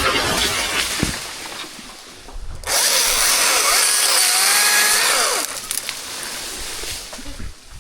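Chainsaw cutting wood. The saw runs loud through a cut of about two and a half seconds starting about three seconds in, its pitch sagging and recovering under load, then drops back to a lower level.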